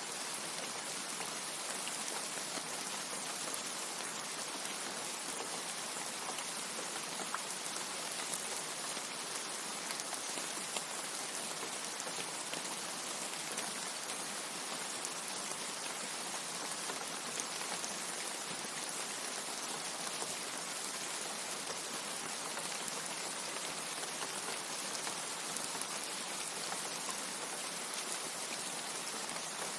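Steady rain: a dense, even hiss with scattered faint ticks of single drops throughout.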